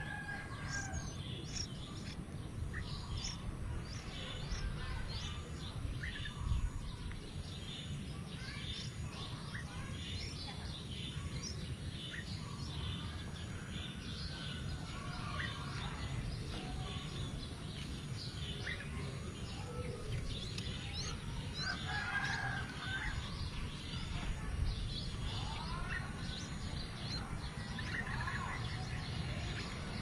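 Birds chirping: a steady scatter of short, high chirps, with a few fuller, curving call phrases in the last third, over a low, steady rumble.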